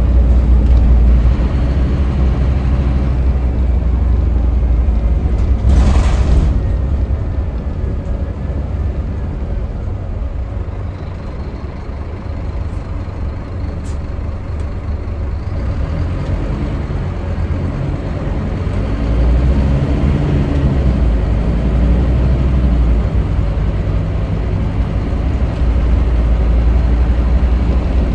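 Scania K310UB city bus's diesel engine running under way, with a short air hiss about six seconds in. The engine gets quieter through the middle, then louder again from about two-thirds of the way through.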